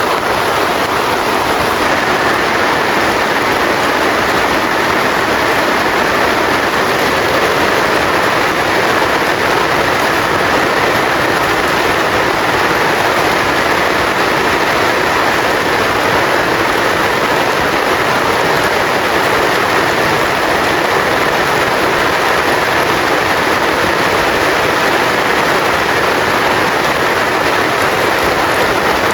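Heavy rain falling, a loud, steady, even hiss that does not change.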